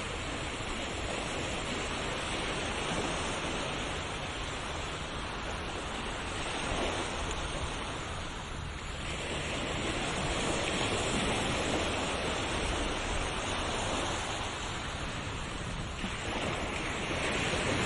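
Ocean waves washing onto a shore: a continuous rush of surf that swells and ebbs, with a fresh surge about halfway through and another near the end.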